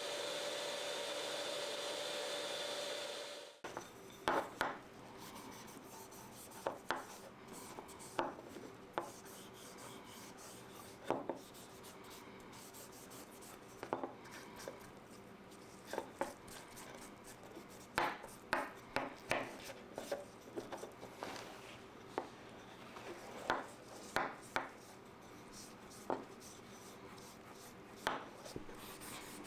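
An electric woodworking power tool runs with a steady whine and stops suddenly about three and a half seconds in. Then wood is rubbed by hand in short, irregular scraping strokes, about one a second.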